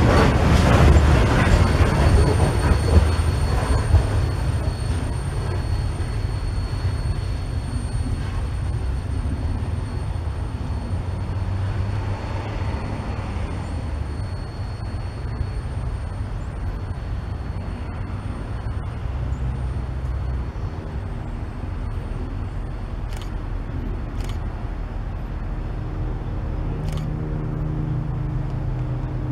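Freight train rolling past, its low rumble loudest at the start and easing to a steady rumble. A few faint clicks come late on, and a steady low hum joins near the end.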